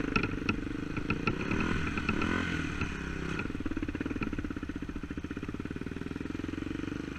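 Dirt bike engine running under way, with sharp clattering knocks over the first few seconds. The engine pitch shifts about two to three seconds in, then holds steady before dropping away at the very end.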